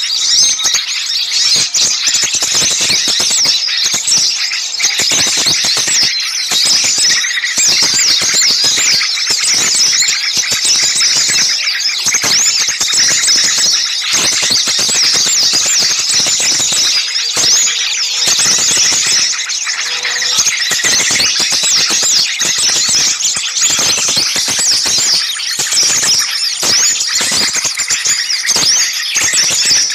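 A noisy chorus of many small songbirds chirping and calling over one another without a break, a flock in an excited commotion.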